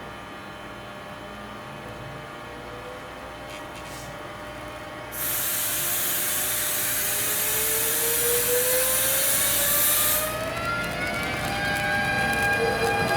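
Electric train's traction motors whining, several tones rising steadily in pitch as it accelerates. A loud hiss, like compressed air venting, starts suddenly about five seconds in and cuts off about five seconds later.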